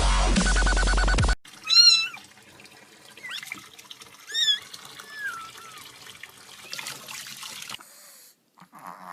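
Electronic dance music with a heavy beat cuts off about a second in, followed by a domestic cat meowing several times, short rising-and-falling calls over faint background noise.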